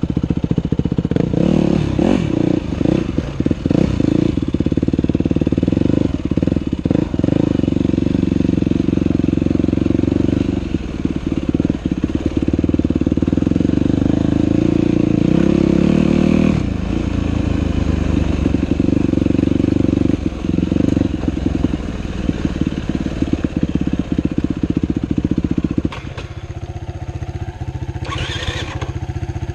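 Dirt bike engine running under changing throttle while riding a trail. The engine note drops a little past halfway and eases off to a lower, quieter run near the end.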